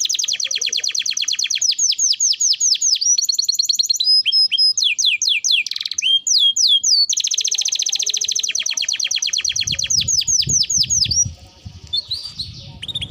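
Domestic canary singing in full song: long, fast trills of rapidly repeated notes, broken in the middle by a phrase of slower sweeping whistled notes, then trilling again before dropping to a softer phrase near the end.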